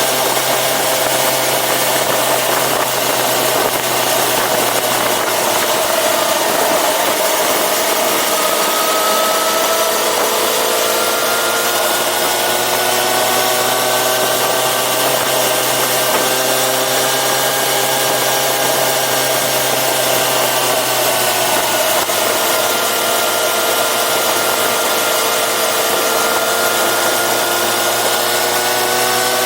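Yamaha FZ6R's inline-four engine running while riding, its pitch drifting slowly up and down as the revs change, over a steady rush of wind and road noise.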